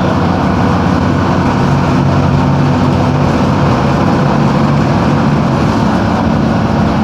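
Mercedes-Benz OM-366LA six-cylinder turbodiesel of a Busscar Urbanus S / OF-1721 city bus running steadily, its pitch shifting slightly now and then.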